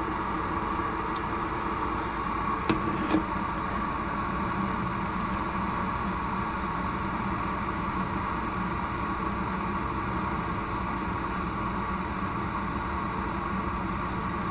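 GEVI pour-over coffee machine heating water in its kettle mode, a steady hum and hiss as the water comes up toward temperature, with a couple of faint clicks about three seconds in.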